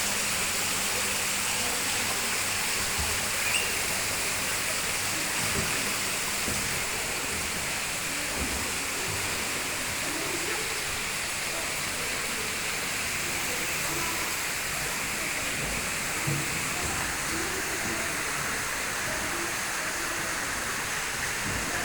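Steady rush of running water, like a small waterfall, with faint indistinct voices under it.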